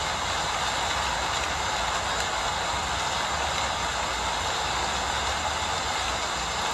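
Steady rain falling at night, an even hiss with no breaks, over a low constant rumble.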